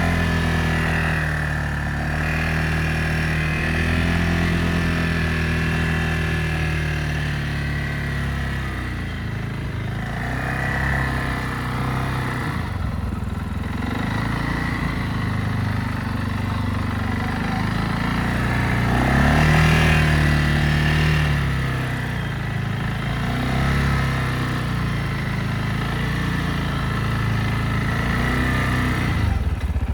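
Quad bike (ATV) engine running under changing throttle, its pitch rising and falling, with the strongest rev about twenty seconds in.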